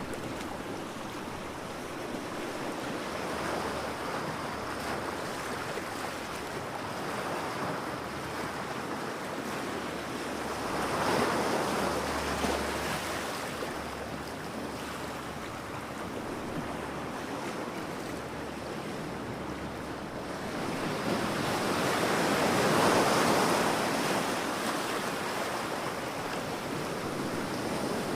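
Ocean waves breaking and washing up a beach, a steady surf wash that swells as a wave breaks about 11 seconds in and again around 23 seconds in, with some wind noise on the microphone.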